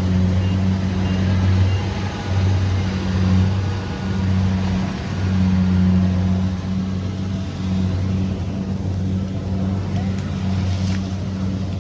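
Kubota DC70 Pro combine harvester's diesel engine running steadily, a deep hum that swells and dips slightly every second or two.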